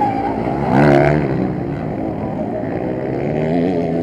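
Motocross motorcycle engines revving hard on the track, their pitch rising and falling as the riders work the throttle and gears. One bike is loudest about a second in.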